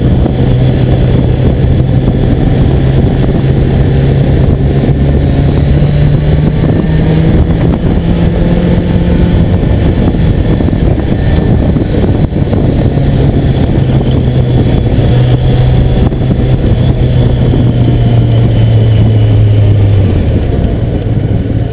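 Motorcycle engine running under way, ridden from the seat. Its note climbs gradually and drops back, then climbs again for several seconds and falls away near the end.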